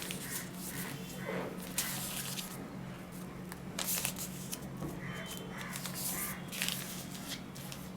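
Paper being folded in half and creased by hand: irregular rustling and crinkling, over a steady low hum.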